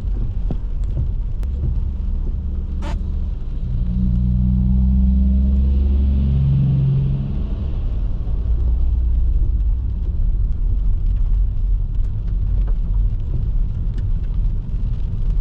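A car driving: steady low engine and tyre rumble that swells for a few seconds in the middle with a steady engine tone, then settles back. There is one sharp click about three seconds in.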